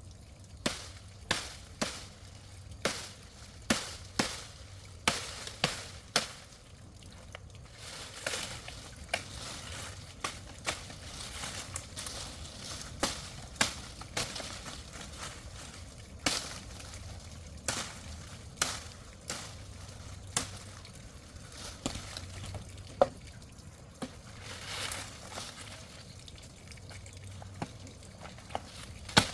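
A series of sharp chopping knocks, about one or two a second for the first several seconds, then more irregular and spread out.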